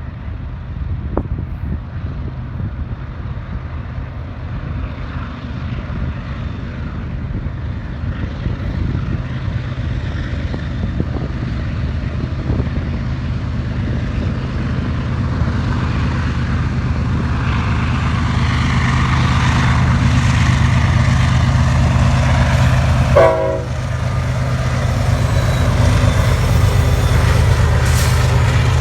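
Diesel locomotives of a BNSF freight train working upgrade, their engine drone growing steadily louder as the train approaches. A short horn blast sounds late on.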